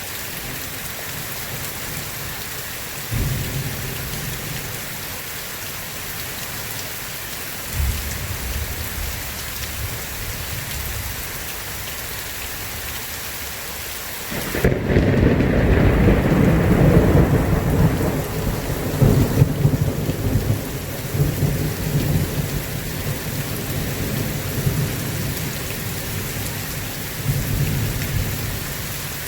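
Steady heavy rain with rolling thunder: two short low rumbles early, then a long, loud rumble breaking suddenly about halfway through and rolling on, slowly fading, with another swell near the end.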